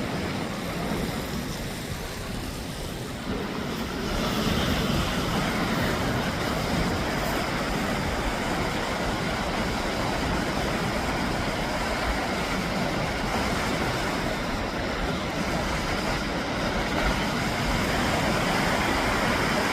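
Ocean surf: waves washing onto the shore, a steady rushing noise that grows louder about four seconds in.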